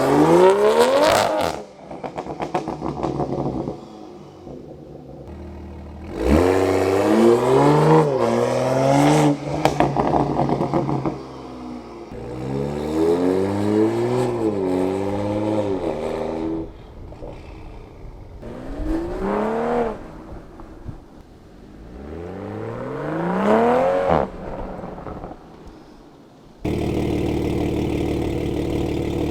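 Toyota Supra engine and exhaust being revved five times in short bursts, each rising in pitch and falling back. It settles into a steady, even-pitched run near the end.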